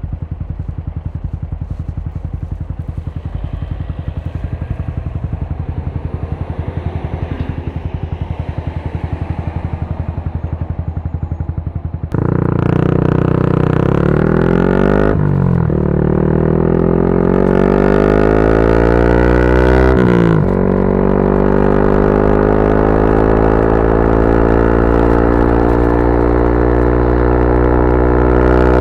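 A 2024 Yamaha R125's 125 cc single-cylinder engine through a Dominator GP straight-pipe exhaust, running steadily at low revs. About twelve seconds in, the throttle opens and the exhaust gets suddenly louder. The revs climb, break twice for upshifts, and keep rising.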